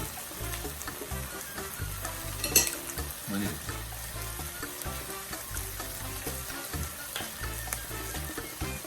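Chicken thigh meat sizzling as it fries, a steady crackle, with one sharp clink from a utensil or pan about two and a half seconds in.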